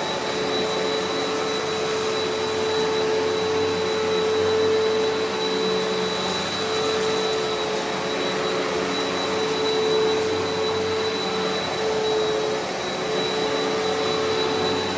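Eureka Altima upright vacuum cleaner running on carpet with a steady motor whine and rushing air, sucking up kitty litter.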